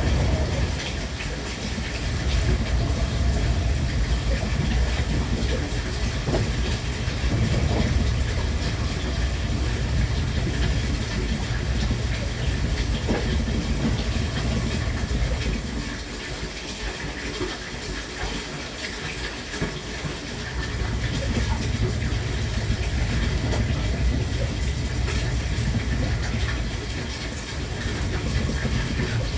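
JR West Thunderbird limited express train running, a steady rumble with faint wheel clatter over the rail joints. The rumble drops for a few seconds midway, then returns.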